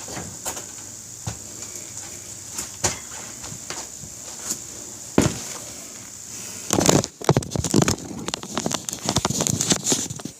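Scattered light clicks and knocks, then about seven seconds in a loud, dense run of crackling and rattling handling noise.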